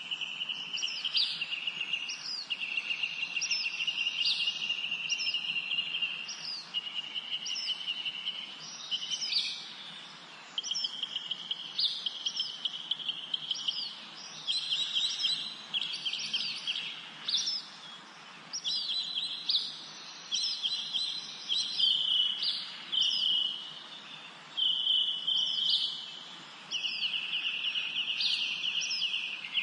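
Several songbirds singing at once: rapid trilled phrases a second or two long follow one another almost without a break, with short high chirps that fall in pitch laid over them.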